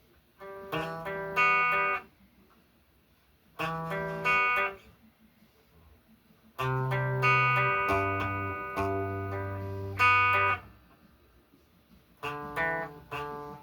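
Guitar playing short runs of picked and strummed chords, four brief phrases with pauses between them, stopping and starting again as the chord shapes are worked through.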